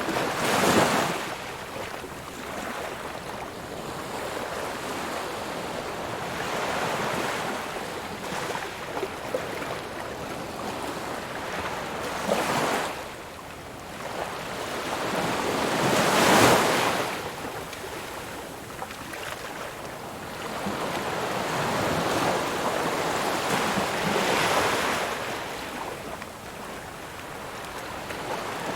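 Ocean waves breaking on a shore, a steady wash of surf with a wave crashing about a second in, another partway through, and the loudest one around the middle.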